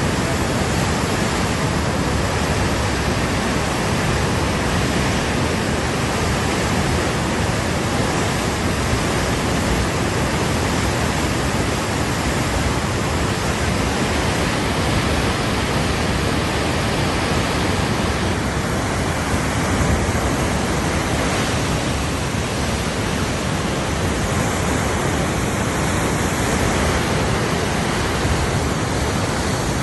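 Loud, steady rush of a river in flood, with no break or change.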